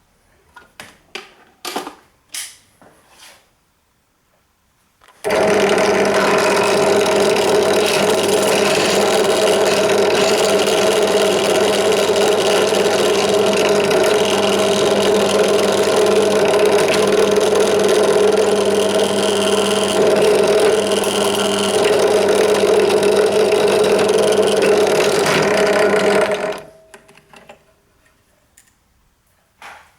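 A small power tool runs steadily for about twenty seconds, taking a stubborn screw out of a floppy disk drive's metal frame instead of unscrewing it. It starts suddenly about five seconds in and stops near the end, after a few light handling clicks.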